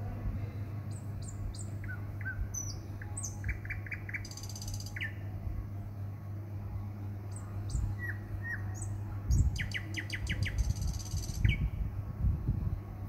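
Small birds chirping in short, sharp, scattered calls, with a couple of brief buzzy trills and a quick run of chirps near the end. Underneath are a steady low hum and a few low bumps from the microphone being handled.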